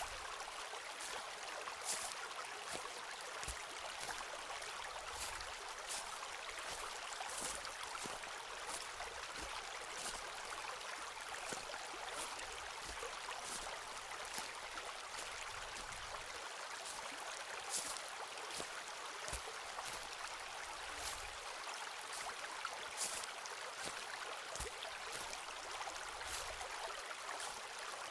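Footsteps walking on a forest path, short crunches about every second or two, over a steady sound of a stream running.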